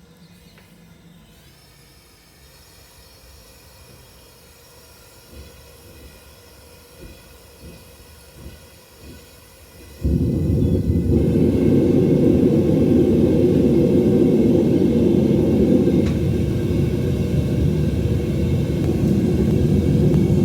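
A few soft knocks, then a home metal-melting furnace's burner starts abruptly about ten seconds in and runs with a loud, steady rumble.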